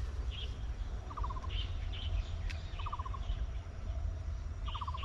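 Wild birds calling: three short, quick trills of about six notes each, and scattered higher chirps, over a steady low rumble.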